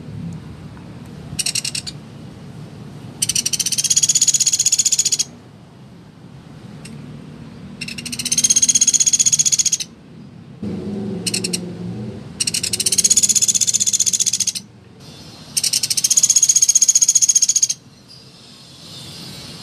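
Pelatuk beras woodpecker giving high, rapid rattling trills, four of them about two seconds each with a couple of short bursts between, over a low background rumble.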